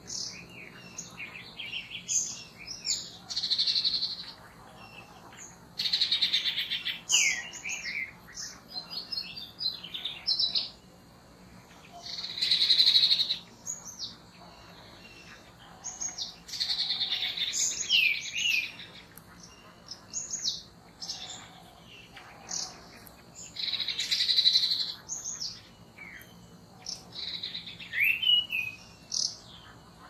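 Songbirds singing and calling: a varied stream of high chirps and quick down-slurred whistled notes, with louder song phrases coming back every few seconds.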